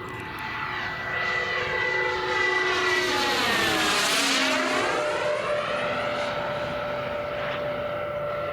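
Turbine-powered RC model jet making a pass: a steady whine that grows louder, then drops in pitch about four seconds in as the jet goes by, and carries on fading.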